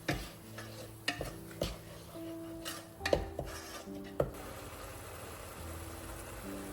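Dishes and utensils clinking and knocking, about five sharp clinks in the first four seconds, then stopping, over soft background music.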